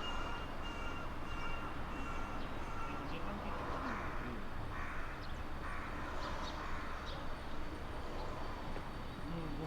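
A steady high tone, broken into short pulses, for about the first three seconds, then three hoarse bird calls about a second apart.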